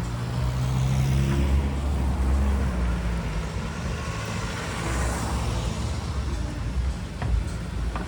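Street traffic: a car engine humming low, with tyre noise swelling as a vehicle passes about five seconds in.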